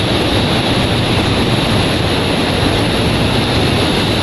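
Wind buffeting the microphone: a steady, loud rumbling noise heaviest in the low end, with no breaks.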